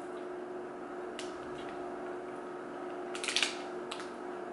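A few short crunches from chewing a bite of a crunchy wafer-layered protein bar, a cluster of them past the middle, over a steady faint hum.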